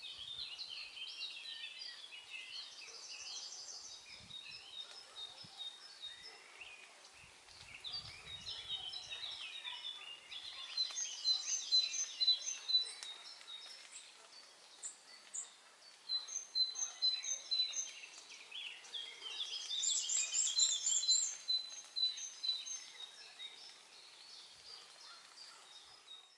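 Several songbirds singing at once: overlapping chirps and trills with runs of quick repeated high notes, growing louder in bursts about halfway through and again later on.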